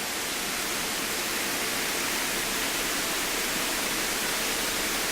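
Steady rushing hiss of cockpit noise in a Cessna 152 on final approach to land, its engine throttled back, with airflow and engine blended into an even hiss.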